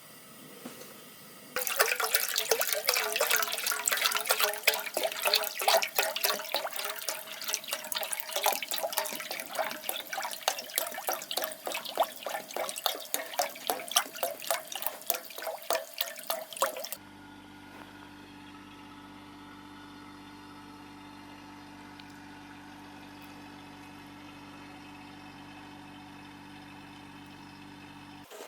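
Water being poured into a pot: a dense splashing stream whose tone rises slowly as the vessel fills, for about fifteen seconds, stopping abruptly. A quieter steady low hum follows and cuts off suddenly near the end.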